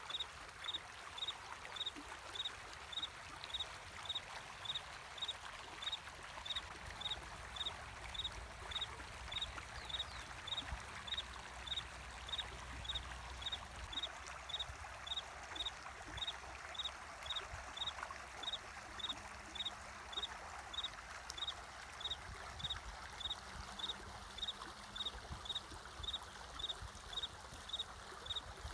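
Flowing water running steadily, with a cricket chirping in an even rhythm over it, about three high chirps every two seconds.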